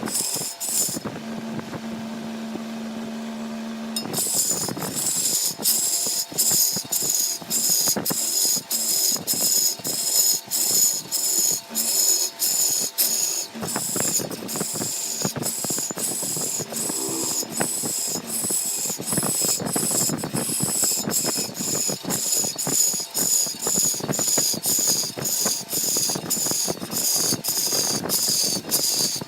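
Large wood lathe turning a log while a cutting tool scrapes it, with a rhythmic knock and hiss about twice a second as the tool meets the uneven surface on each turn. About a second in, a steady low hum is heard alone for about three seconds before the cutting resumes.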